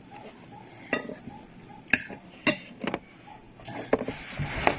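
Cutlery clinking against a plate while eating, about six separate clinks, some ringing briefly, with a short rustling noise near the end.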